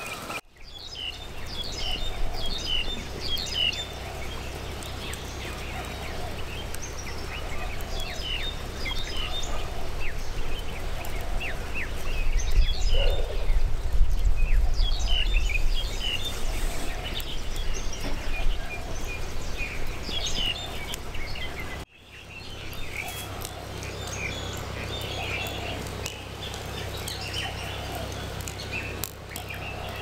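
Several small birds chirping and calling in quick, repeated short notes, over a low steady rumble that swells in the middle. The sound briefly drops out twice.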